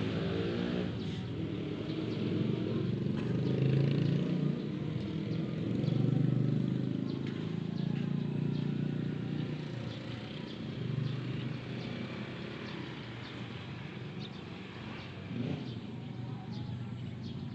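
Road traffic: engines of passing cars and motorcycles, swelling about four and six seconds in, then easing off.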